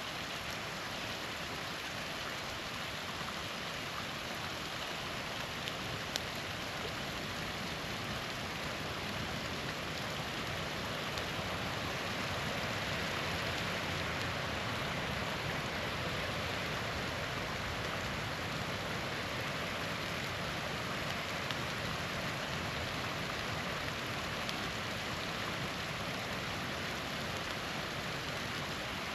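Small waterfall rushing steadily, swelling slightly midway. A campfire pops sharply a couple of times about six seconds in.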